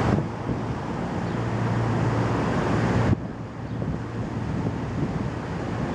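Strong storm wind buffeting the microphone: a loud, noisy rush with a heavy low rumble that drops abruptly about three seconds in, then carries on a little quieter.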